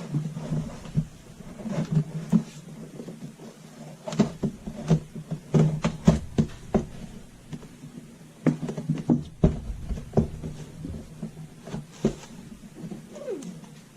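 Irregular knocks, taps and clatter of hands handling a humidifier and its parts as it is opened up.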